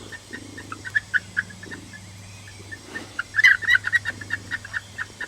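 Icelandic chickens clucking in short, quick calls, with a denser flurry about three and a half seconds in.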